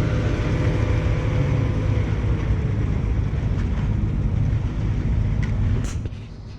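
Concrete pump truck's engine running steadily with a low drone, and a faint whine that sags slightly in pitch about two seconds in. There are a couple of light clicks near the end, and then the level falls away.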